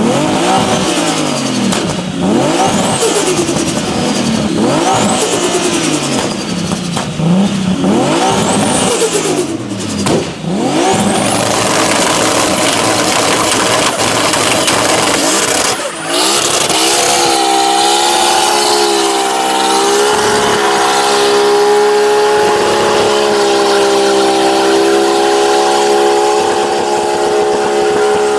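A car engine revved hard over and over, its pitch climbing and dropping about every two seconds, then held at high, nearly steady revs for roughly the last ten seconds.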